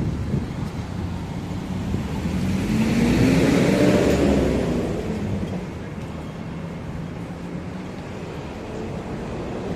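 A road vehicle drives past, its engine tone rising and then falling as it goes by, loudest about four seconds in, over a steady background rumble of traffic.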